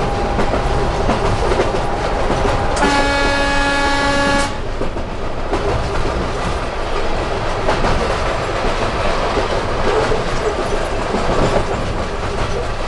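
Train running over the rails, heard from inside the locomotive cab, with one horn blast of about a second and a half starting about three seconds in.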